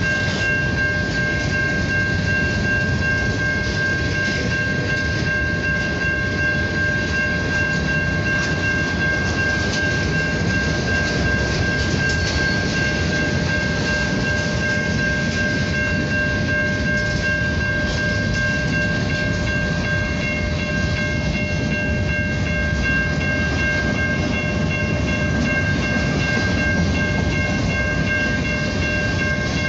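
Norfolk Southern manifest freight train's covered hopper cars rolling past at a crossing: a steady rumble and clatter of steel wheels on the rails, with a steady high ringing tone over it.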